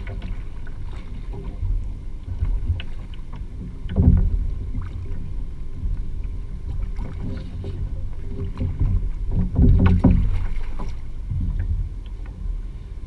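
Water sloshing against a Hobie Pro Angler 14 kayak's hull under a low rumble, with scattered small clicks. Louder knocks come about four seconds in and again around ten seconds.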